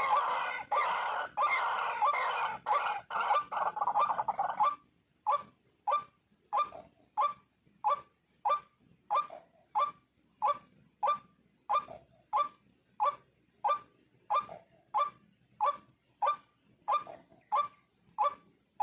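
White-breasted waterhen calling. For the first four or five seconds the calling is loud and dense, with calls overlapping. It then settles into one short call repeated evenly, nearly twice a second, each note dropping in pitch.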